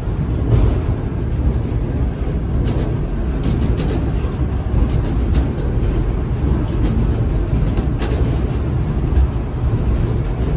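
Steady low rumble of a train passenger car rolling along the rails, with scattered sharp clicks.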